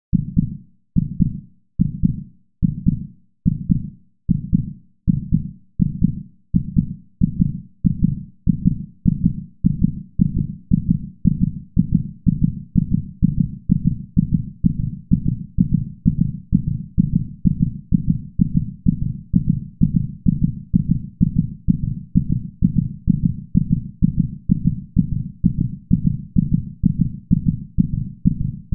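Heartbeat sound effect: low, deep thuds in a regular rhythm, starting at about one beat a second and speeding up steadily to more than two a second.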